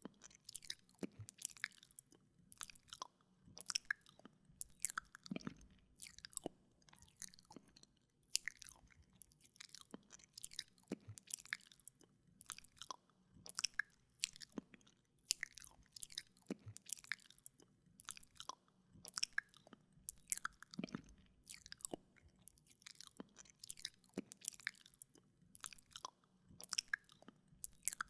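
Wet mouth sounds close to a binaural microphone: irregular lip smacks, tongue clicks and licking, several a second.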